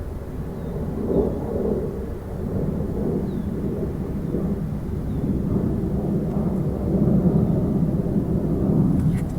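Low, rough droning rumble from a parked 2014 Ford Focus with the engine off, growing louder in the second half: the intermittent strange noise the owner heard from the car.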